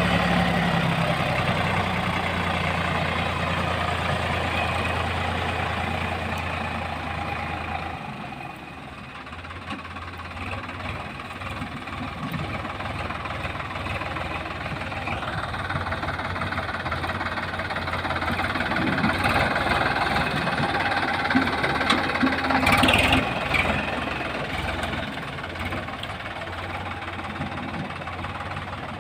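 Tractor's diesel engine running. Its low drone drops off about eight seconds in, and the sound grows louder again later on.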